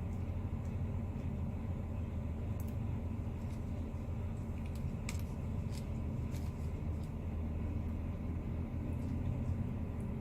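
Semi truck's diesel engine idling with a steady low rumble, heard from inside the cab, with a few faint clicks.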